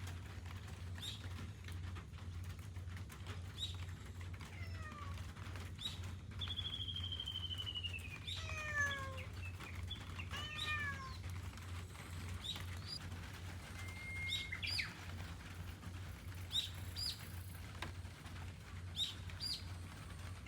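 House cat meowing a few times in falling calls, mostly in the first half, with short high chirps scattered throughout over a steady low hum.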